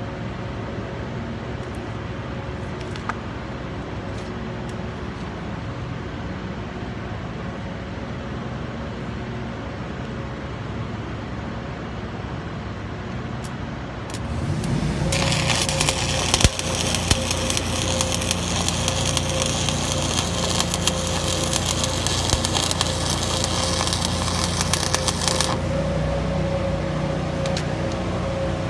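Stick welding with a 7018 electrode: the arc crackles steadily for about ten seconds, starting about halfway through and cutting off suddenly, over a steady machine hum.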